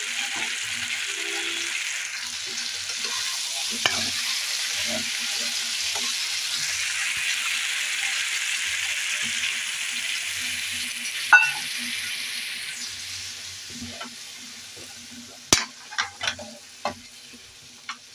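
Potato and eggplant pieces frying in spiced oil, a steady sizzle, while a metal spoon stirs and scrapes them in the pan. The sizzle dies down over the last few seconds, and the spoon knocks sharply against the pan a few times near the end.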